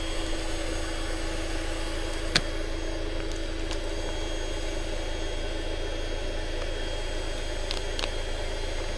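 Electric air pump running steadily as it inflates an air mattress, with a sharp click about two seconds in and two more near the end.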